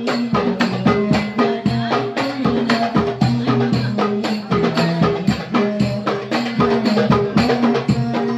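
Darbukas (goblet drums) played together in a fast, driving rhythm, sharp high strikes mixed with deep bass strokes.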